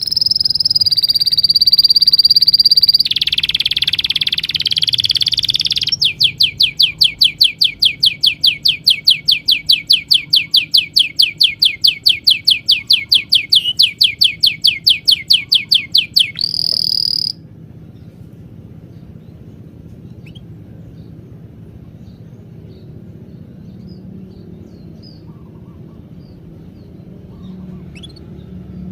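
Loud, high-pitched wildlife calls. A steady buzz changes into a rapid pulsing trill of about four pulses a second, which stops suddenly about 17 seconds in. After that, faint scattered bird chirps sound over a low steady hum.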